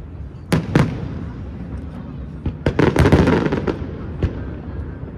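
Fireworks exploding: two sharp bangs close together about half a second in, then a dense run of crackling pops around three seconds in, and one more bang a little after four seconds.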